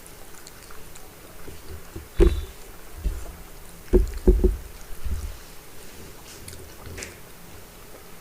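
A person eating soft egg poaches with runny yolk quickly, with wet mouth and chewing sounds, and several dull thumps between about two and five seconds in.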